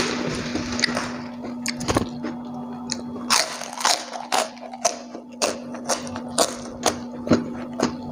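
Close-up crunching and chewing of crispy food, a run of sharp crunches at about two a second, mostly from about three seconds in. A steady low hum runs underneath.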